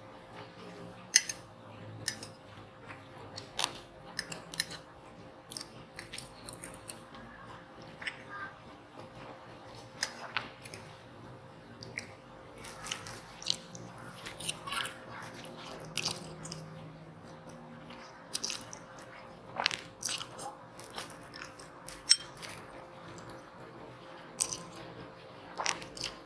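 Close-miked eating sounds: a person chewing mouthfuls of instant noodles and grilled lamb, with wet mouth noises and many scattered sharp clicks, typical of a metal fork touching a plate.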